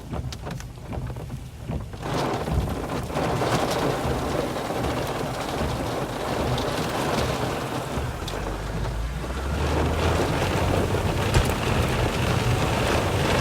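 Heavy rain beating on a car's body and windshield, heard from inside the cabin, building about two seconds in. A low rumble swells under it for a couple of seconds past the middle.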